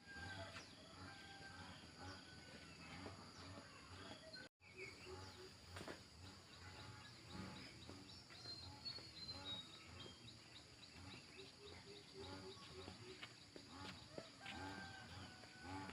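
Faint background ambience with scattered short bird chirps.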